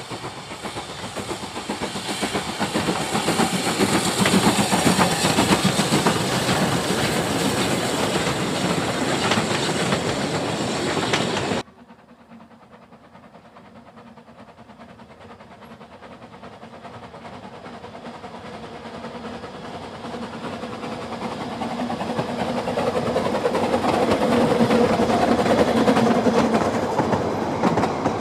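A steam train running loud and close, cut off suddenly near the middle. Then a narrow-gauge train approaches and its carriages roll past, growing steadily louder.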